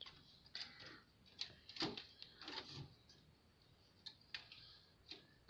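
Faint, scattered clicks and knocks, about eight in all, irregularly spaced; the loudest comes a little under two seconds in.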